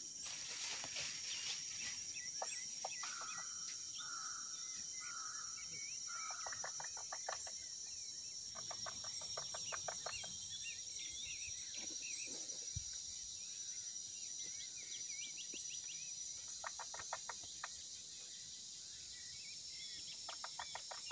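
Outdoor ambience of birds calling over a steady high-pitched drone. Several calls are quick rattling trills, and there is a run of four even, separate calls in the first quarter.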